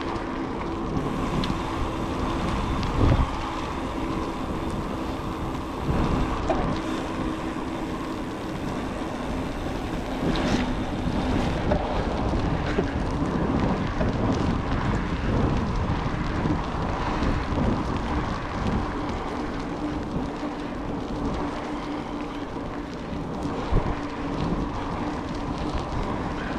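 A vehicle running at a steady pace during a ride, its engine a constant drone, with wind on the microphone and a few knocks.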